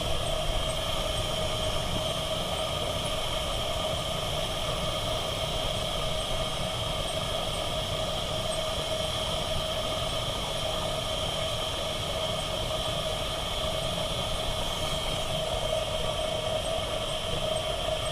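A model Fowler 3-inch gauge steam traction engine running in steam, giving a steady, even hiss of steam with a faint regular ticking.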